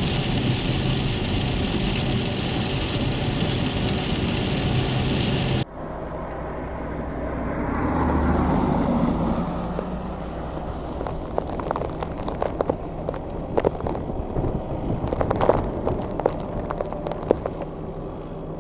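Road vehicle noise on snow-covered roads: a steady, loud run of vehicle noise that cuts off suddenly, then a vehicle passing, followed by scattered crackling clicks.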